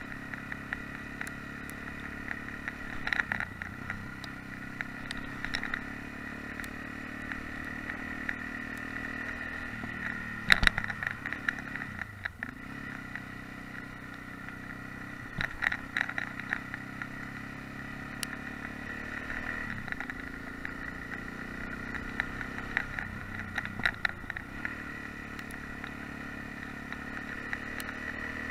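Yamaha XT660X's single-cylinder four-stroke engine running under way on a gravel road, its note dipping and recovering several times as the revs change. Scattered knocks and rattles come from the rough surface, with the sharpest knock about ten seconds in.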